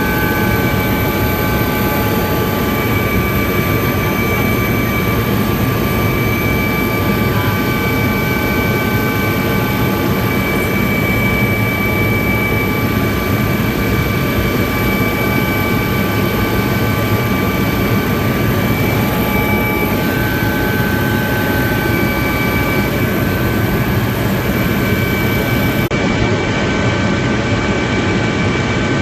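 Helicopter running at a steady, loud drone of engine and rotor noise, with several constant high whining tones over it.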